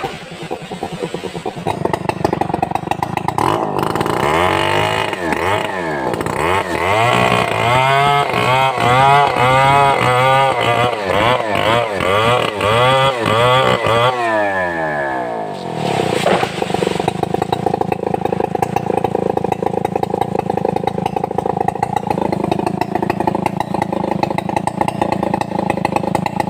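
Stihl 070 two-stroke chainsaw running loud, its engine pitch rising and falling over and over for about ten seconds, then holding fairly steady at high speed for the rest.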